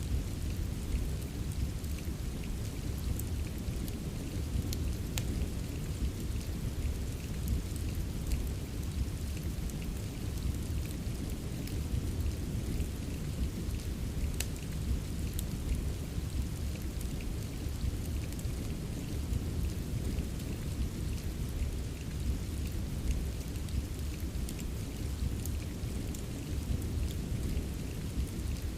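Steady rain hiss over a deep, continuous low rumble, with scattered sharp crackles of a wood fire in a fireplace.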